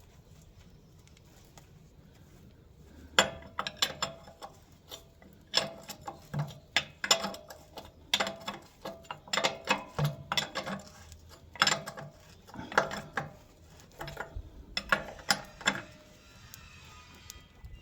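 Ratchet spanner clicking in repeated quick runs as nuts are tightened down on the fuel tank fittings of a 1913 Hornsby portable engine. It starts about three seconds in and stops shortly before the end.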